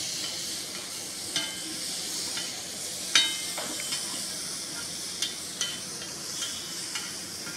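Boneless chicken sizzling in butter on a large flat tawa griddle, stirred with a slotted metal spatula that scrapes and clicks against the griddle several times. The sharpest click comes a little after three seconds in.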